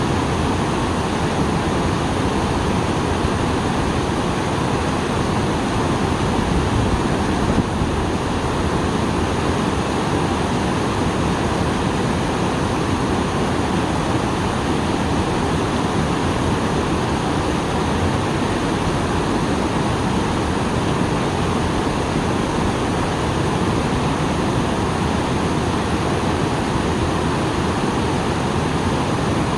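A small waterfall after rain: water pouring over rocks in a steady, unbroken rush.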